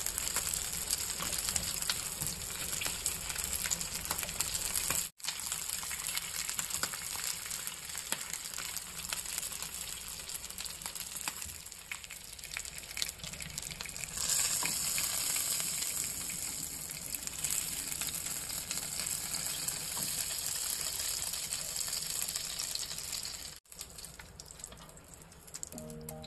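Pork-stuffed bell pepper halves frying in hot oil in a pan: a steady, crackling sizzle, broken off twice for an instant.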